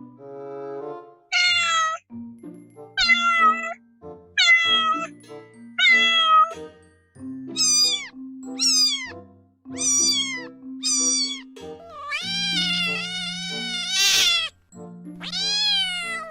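Kittens meowing over and over: about ten short, high meows that each fall in pitch, the last two longer and louder. Background music with held low notes runs underneath.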